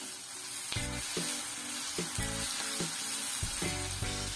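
Sliced onions and tomatoes sizzling in hot oil in a kadhai, a steady frying hiss, while a wooden spatula stirs them.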